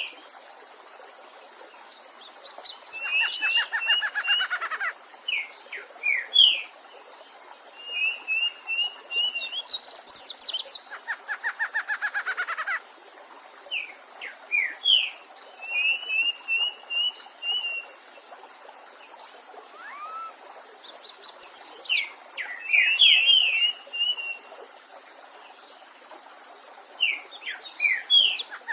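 Several songbirds singing in phrases every few seconds: short quick trills, sharp high chirps and a fast falling run of notes, over the faint steady rush of a stream.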